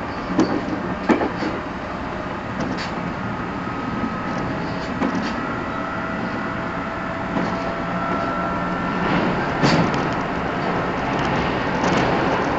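Cabin noise inside a JR 211 series 5000 electric multiple unit car, KuMoHa 211-5009: a steady rumble and hiss with a few faint steady tones, broken by a few sharp knocks, the sharpest about a second in and another near ten seconds.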